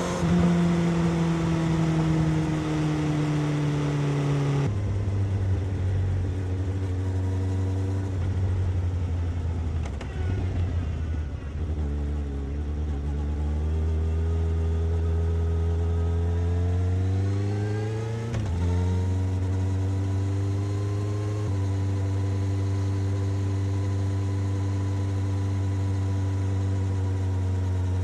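Suzuki GSX-S750's inline-four engine and exhaust under way. The engine note drops abruptly about five seconds in. It climbs steadily under acceleration from about twelve seconds, falls sharply at a gear change a little past eighteen seconds, then holds steady at cruising speed.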